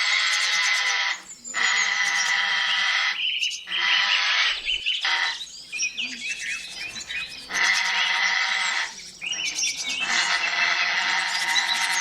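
Bird calling: five long calls of one to two seconds each, with shorter chirps in between.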